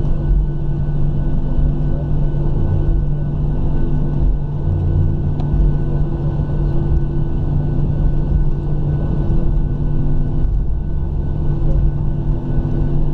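Cabin noise inside a Boeing 737-700 on the ground after landing: a steady low rumble with a constant hum from its CFM56-7 engines at idle.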